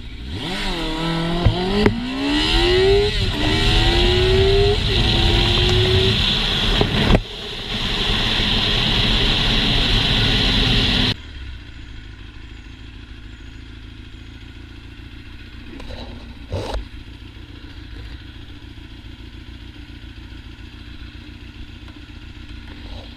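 Motorcycle engine accelerating hard through the gears: the revs climb, drop at each shift and climb again, under a loud hiss. About eleven seconds in the sound cuts off abruptly to a much quieter, steady engine hum.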